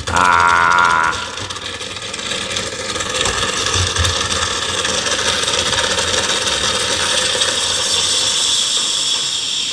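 Moritz espresso machine's steam wand hissing steadily during a cleaning run with baking-soda water, after a loud buzzing burst in the first second.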